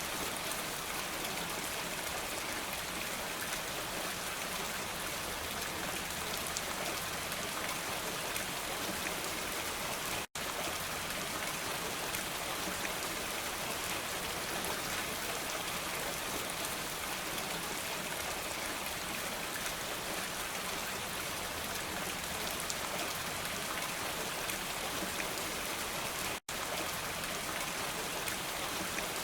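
Steady rain falling, a dense even hiss of drops on surfaces, cutting out to silence for an instant twice.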